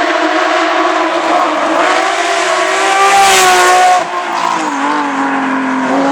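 Rally car engine under hard acceleration as the car comes close, its note climbing to the loudest point about three and a half seconds in. The note then drops sharply about four seconds in and starts climbing again near the end.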